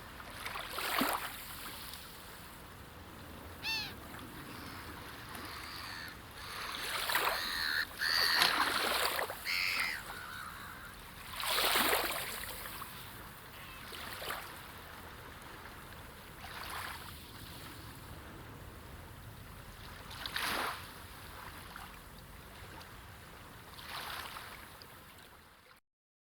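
Sea waves washing in, each surge a swell of hiss every few seconds, with a bird calling a few times in the first third. The sound cuts off suddenly near the end.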